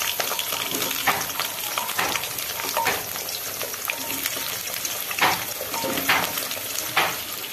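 Potatoes sizzling as they fry in hot oil in a kadai, with several short sharp clicks over the steady hiss.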